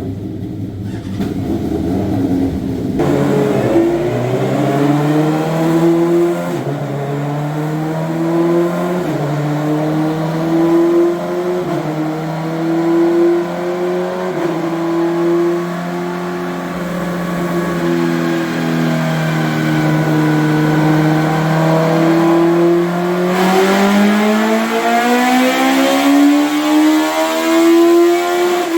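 Twin Suzuki Hayabusa inline-four engines of a mini truck running loud under load on a dyno. They hold a near-steady speed with small step changes, then rev up over the last five seconds or so and begin to drop off at the very end.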